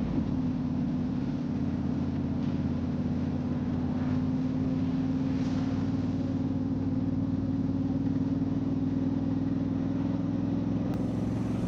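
Motorcycle engine running at a steady cruising speed, its pitch holding almost level throughout.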